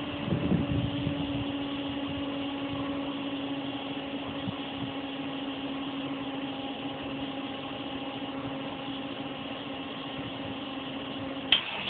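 ZZ502 big-block Chevy V8 idling steadily, a little unevenly in the first second. A single sharp click comes just before the end.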